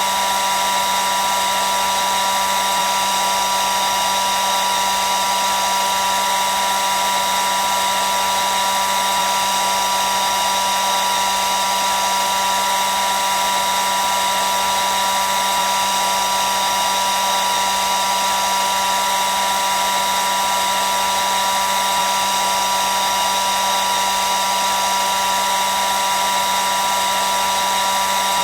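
Hair dryer running continuously at a steady speed: an even rushing blow with a steady high whine near 1 kHz and a lower hum, unchanging throughout.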